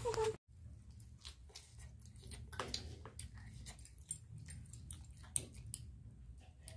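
A wavering whine cuts off abruptly about half a second in. After it come faint, irregular mouth smacks and chewing clicks of children eating with their fingers, over a low steady hum.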